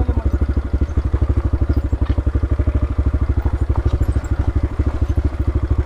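Motorcycle engine running steadily at low revs, an even pulsing beat of about a dozen firings a second.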